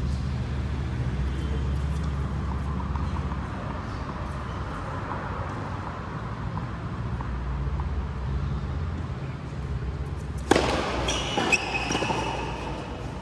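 A steady low hum, then about ten and a half seconds in a sharp hit, followed by high squeaks and a second, smaller hit about a second later: ball strikes and shoe squeaks on a court.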